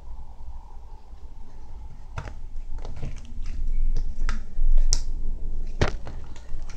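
Slime being squished and poked by hand, giving sharp, irregular pops and clicks from about two seconds in, the loudest near the end.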